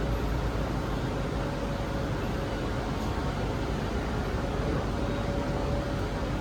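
Zhongtong hybrid range-extender city bus under way: a steady low rumble of drivetrain and road noise, with a faint steady whine.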